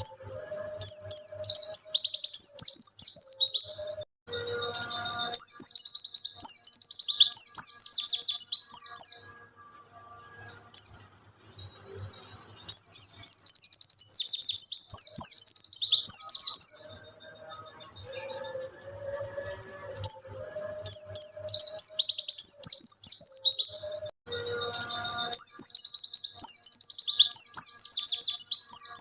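White-eye (pleci) singing a long, rapid, high-pitched warbling song in about five bouts of some four seconds each, with short pauses between them. Fainter, lower calls sound in the gaps.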